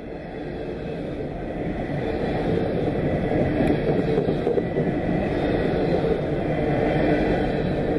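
Coal hopper cars of a freight train rolling past, a steady rumble of wheels on the rails that grows louder over the first couple of seconds and then holds.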